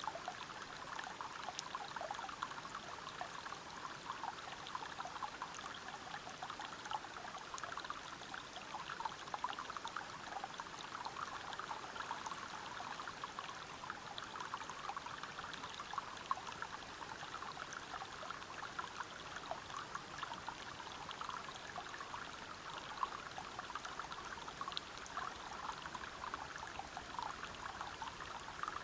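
River water running over rocks: a steady rush with many small splashes and gurgles throughout.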